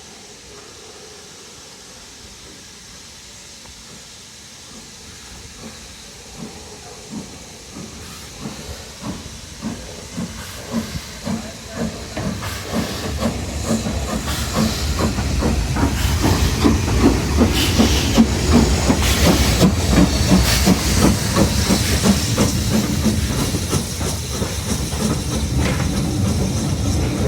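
BR Class 9F 2-10-0 steam locomotive starting away with a train: a steady hiss of steam at first, then chimney exhaust beats that begin slowly a few seconds in and quicken as it gathers speed. The sound grows louder to a peak and eases slightly near the end.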